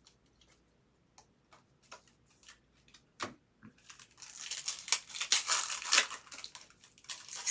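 Foil wrapper of a trading card pack crinkling and tearing as it is ripped open, starting about four seconds in, after a few light clicks and taps of cards being handled.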